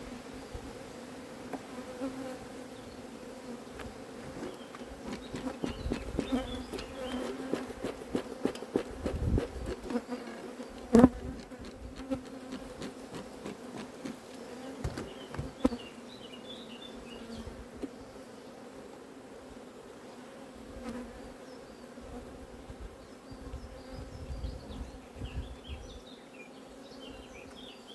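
Honeybee colony buzzing steadily in an open hive, a constant hum. Knocks and clicks from the hive frames being handled come through the middle, with one sharp knock about eleven seconds in.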